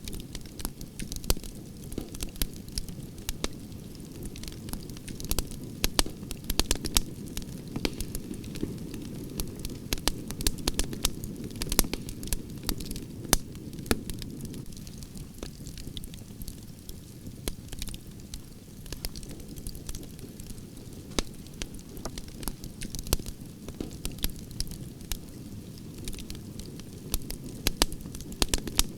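Campfire of burning branches crackling: a steady low rush of flames under many sharp, irregular pops and snaps of burning wood.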